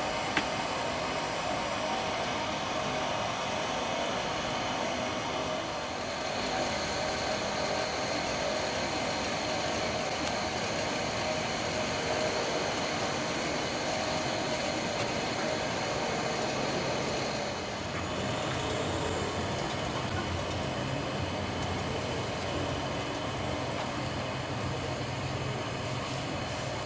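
Steady jet engine noise from Mitsubishi F-2 fighters, single-engine turbofan jets, holding an even level with only slight shifts.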